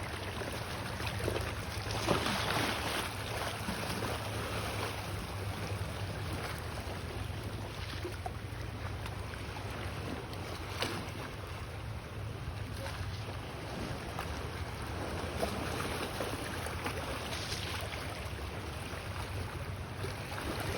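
Small waves washing over the lava rock shoreline, swelling and falling back every few seconds, with wind rumbling on the microphone.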